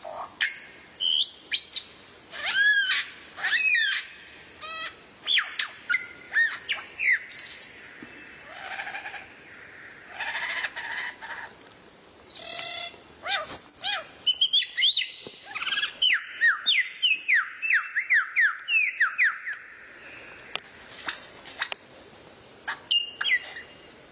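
Songbird singing a busy, varied song of sharp chirps, whistles and trills. From about 16 to 19 s it delivers a run of quick down-slurred whistled notes, about three a second.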